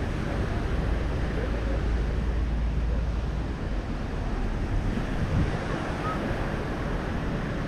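Sea surf washing on a beach, with wind buffeting the microphone in a low rumble that eases about halfway through.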